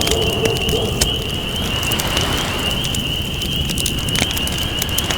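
Wood campfire crackling with scattered sharp pops, over a low steady wash of ocean waves, with a steady high-pitched trill behind.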